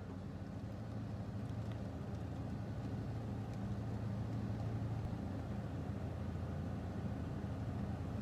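Steady low mechanical hum with an even rushing noise over it.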